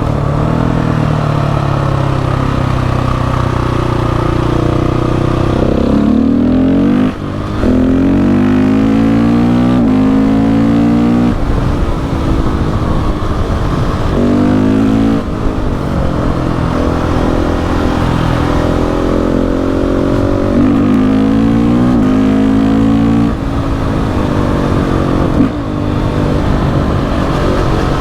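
KTM 690 SMC R's single-cylinder engine pulling hard: after a few seconds at steady revs, the pitch climbs again and again through the gears, with short drops at each shift and throttle lift.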